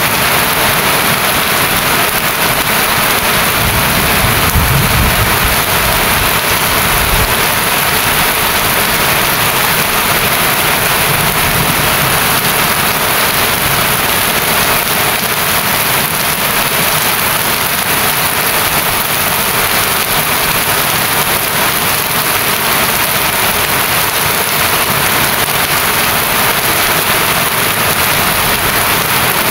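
Steady rain falling, an even loud hiss, with a brief low rumble about four to seven seconds in.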